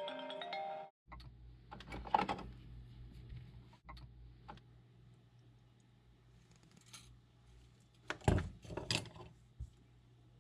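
A short chiming music cue ends about a second in, followed by scattered clicks and short metallic rattles of small tools and parts being handled at a repair bench, over a steady low electrical hum.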